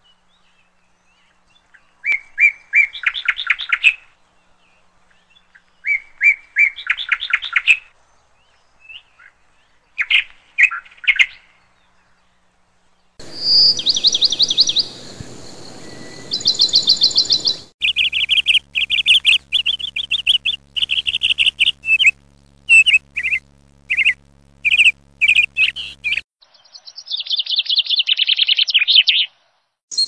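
Small birds chirping in quick trills, short bursts every few seconds at first, then denser runs of chirps. The sound cuts off and changes abruptly several times, like spliced recordings.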